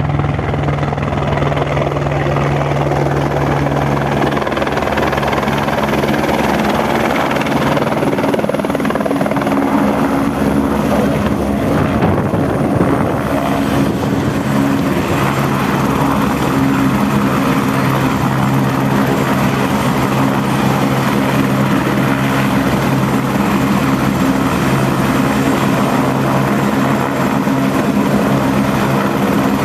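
Helicopter running close by, a loud steady rotor and engine sound whose pitch shifts a little about halfway through.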